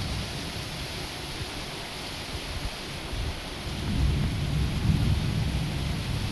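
Steady rain falling, an even hiss, with a low rumble of thunder swelling up about halfway through and rolling on.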